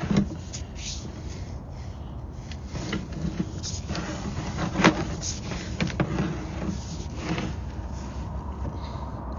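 A steady low mechanical hum with scattered clicks and knocks over it, about half a dozen through the stretch, the loudest around the middle.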